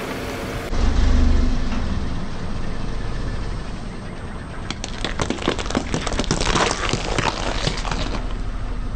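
Car engine running low, and from about five to eight seconds in a tyre rolls over and crushes something crunchy: a dense run of cracks and snaps.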